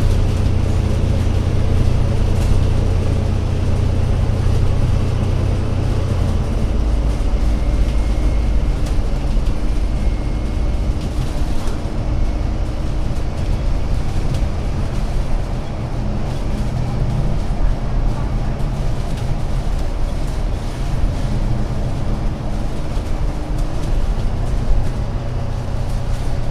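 Double-decker bus engine running steadily, heard on board. Its note changes about six and a half seconds in, with a steady hum added, and goes back to the earlier note near the end.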